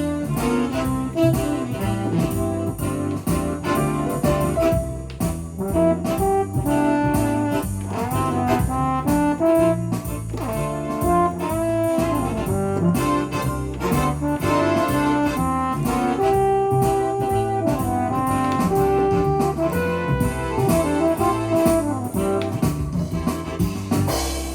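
Korg Pa1000 arranger keyboard playing one of its factory styles: a rhythmic accompaniment pattern with a steady beat and a brass-section melody line on top.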